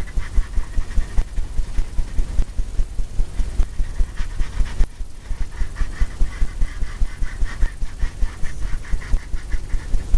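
Paintbrush scrubbing and dabbing oil paint onto a stretched canvas in quick, regular strokes, about four a second, each with a dull thump from the canvas.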